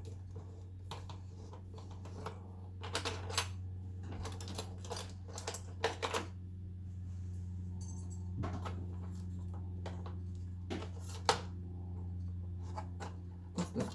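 Irregular clicks and clatter of small plastic and metal parts being handled as a projector is taken apart, over a steady low hum.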